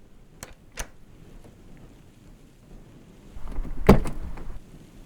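Car door sound effects: two short clicks in the first second, then a car door shut with a loud thud about four seconds in.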